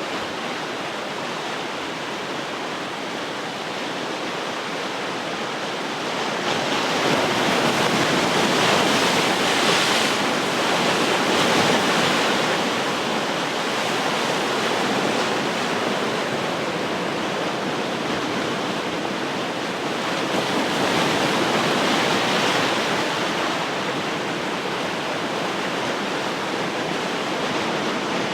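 Ocean surf: waves breaking and washing on the shore in a continuous hiss, swelling louder twice, about six seconds in and again about twenty seconds in.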